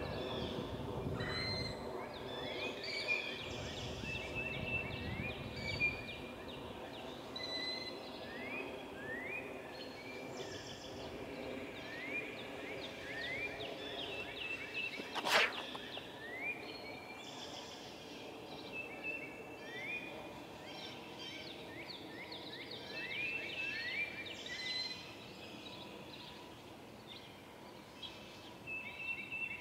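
Several songbirds calling and singing, with many short rising notes and higher chips repeated throughout. A steady low hum runs underneath, and there is a single sharp click about halfway through.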